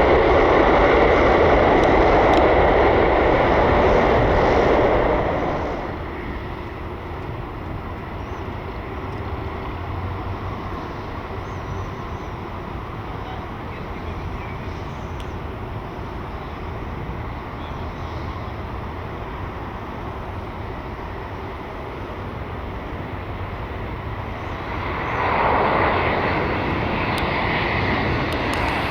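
Jet engine noise from a Boeing 747-8F's four GEnx-2B turbofans. It is loud for about the first five seconds, falls to a lower steady level, then swells again about twenty-five seconds in.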